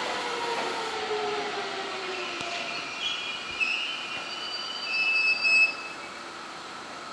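Seibu 30000-series electric train moving away over the tracks, a whine from it falling in pitch over the first couple of seconds. From about three seconds in, wheels squeal high-pitched, loudest a little after five seconds, then the sound fades.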